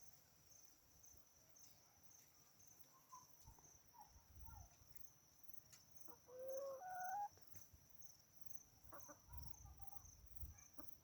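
Domestic chickens clucking faintly now and then, with one louder drawn-out call a little past the middle.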